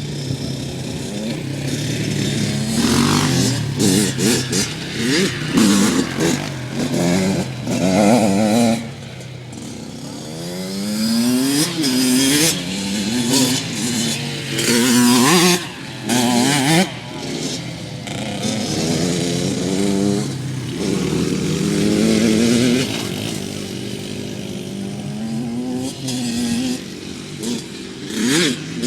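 Small dirt bike engines revving hard, the pitch climbing and dropping again and again as the bikes accelerate and shift, loudest through the middle of the stretch.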